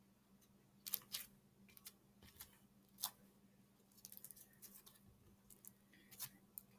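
Faint, scattered crisp snips and clicks of small craft supplies being handled, a couple a second in bursts, over a low steady hum.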